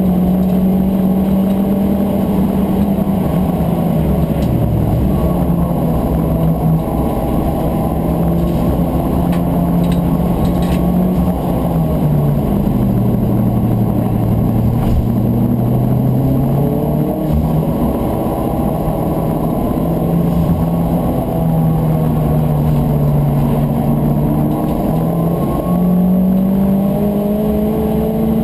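Turbocharged VW Corrado race car engine heard from inside the cabin at racing speed. The revs rise and fall through gear changes and corners and sit lowest around the middle, over steady road and tyre noise.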